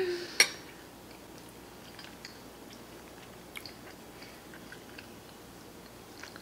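A person chewing a mouthful of baked macaroni and cheese with her mouth closed: a sharp mouth click about half a second in, then faint, scattered wet clicks.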